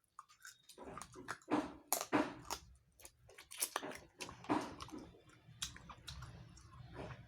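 Close-up chewing and lip-smacking of a person eating pigeon curry and rice: many short, irregular wet mouth clicks, over a low steady hum.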